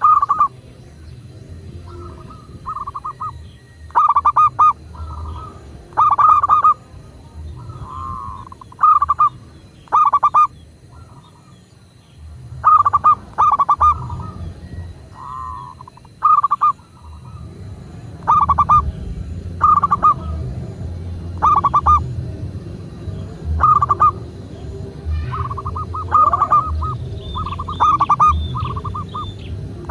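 Zebra dove cooing: short, stuttering trilled coos repeated every second or two, over a low background rumble.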